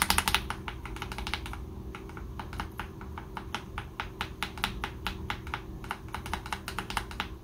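Mechanical keyboard fitted with AKKO CS Jelly switches being typed on quickly, with a steady stream of clacking keystrokes. A louder flurry of strokes comes right at the start.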